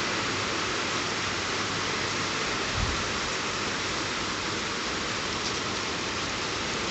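Steady rain falling, an even hiss, with one brief low thump a little under three seconds in.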